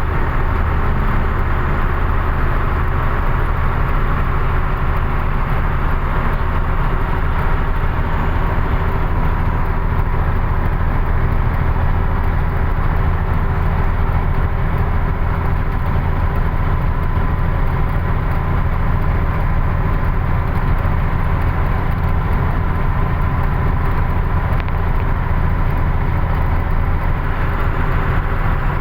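Truck engine running steadily with road noise while driving, a constant low drone that holds level throughout.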